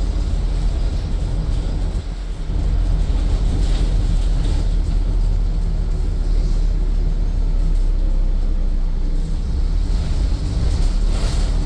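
Scania N230UD double-deck bus's diesel engine running, a steady low drone with road noise heard from inside the passenger cabin. The level dips briefly about two seconds in.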